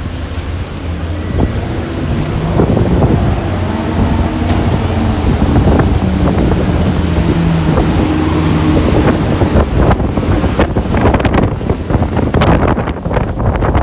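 Storm wind gusting across the microphone in a heavy low rumble, with the hiss of wind-driven rain and street noise beneath; the buffeting turns more ragged and gusty in the last few seconds.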